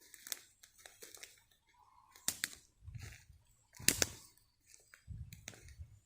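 Footsteps on a wet forest floor: soft thuds about once a second, with crackles and snaps of leaves and twigs underfoot, two of them sharper and louder.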